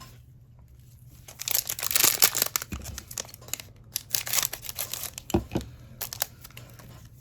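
Trading-card pack wrapper being torn open and crinkled by hand. The crackling comes in two bouts, starting about a second in and again about four seconds in, with a couple of soft knocks around five seconds.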